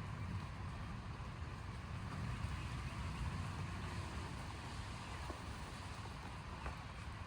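Distant thunder rumbling low and steady during a thunderstorm, slowly easing off, under a soft even hiss.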